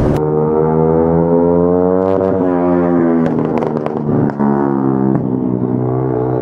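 Motorcycle engine running with a steady, humming note that sags and shifts pitch a few times as the throttle changes.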